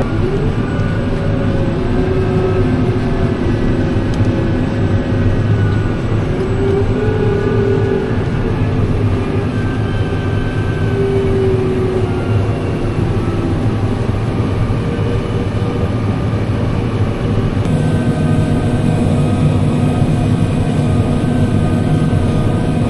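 Heavy harvest machinery engine running steadily under load, with a higher whine that drifts in pitch; the sound changes abruptly about 18 seconds in.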